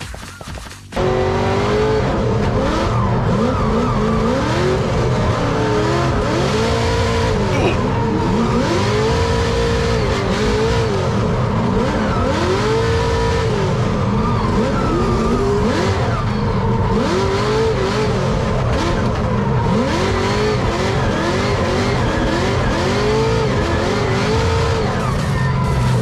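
Drift car engine revving up and dropping back over and over, every second or two, while its tyres squeal through a drift run.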